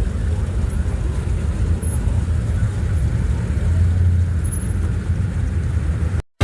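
Low, steady rumble of a car engine, cutting off suddenly near the end.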